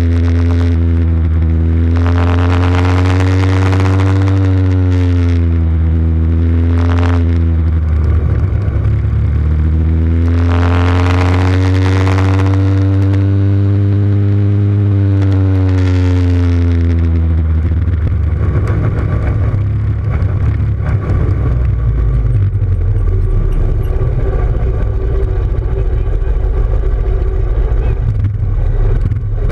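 Motorcycle engines running. Twice the engine pitch rises and then falls over about seven seconds, with a burst of raspy high noise near each peak. From about 18 seconds in it gives way to a rougher, lower rumble.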